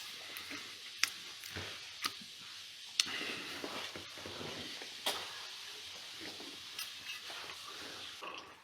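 Faint clinks and clatter of dishes being handled during washing-up, a few sharp knocks about a second apart, over a steady low hiss.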